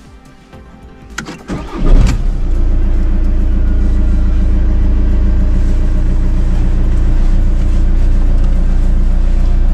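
Car engine started from inside the cabin: a couple of clicks, a brief crank of the starter, and the engine catches almost at once about two seconds in, then settles into a steady idle. It starts readily on a freshly charged battery.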